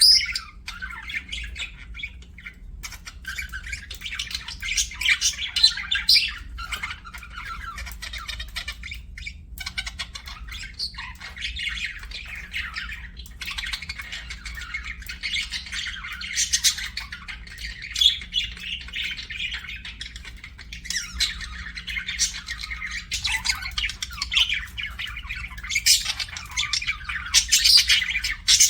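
Budgerigars chattering and chirping without a break, a dense warbling with sharper, louder squawks every few seconds.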